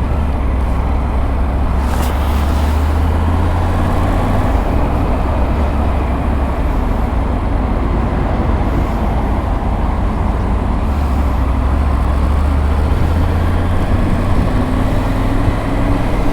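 Triumph Tiger 900's three-cylinder engine running steadily at low speed in slow, heavy traffic, a continuous deep hum under road noise. The hum grows a little stronger for the first few seconds and again near the end.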